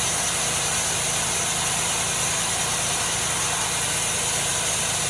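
Sawmill machinery running steadily: a constant engine-like drone with a hiss over it, unchanging throughout.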